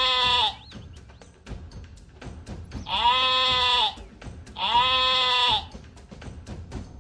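Bleating calls, each about a second long on one pitch with a slight drop at the end, heard three times: one fading just after the start, then two more about three and five seconds in. Short clicks tick quietly between the calls.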